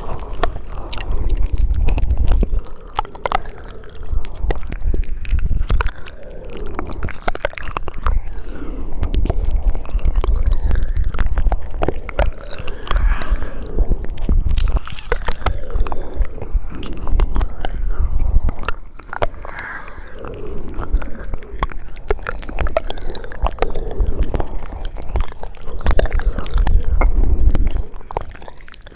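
ASMR mouth sounds: wet lip smacks, tongue clicks and saliva sounds, many irregular clicks in quick succession.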